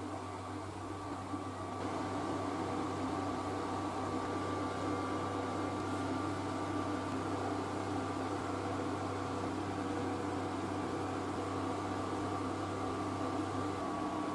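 Homemade PVC compressed-air engine running at a steady speed: a constant mechanical whir with several steady tones. Its deepest hum drops out near the end.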